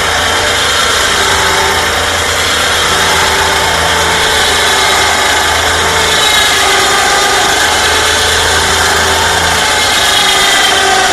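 Electric winch motor running under load, a steady hum with a gear whine, as it pulls a truck by cable up a steep incline. About nine and a half seconds in the low hum drops away and the whine rises in pitch.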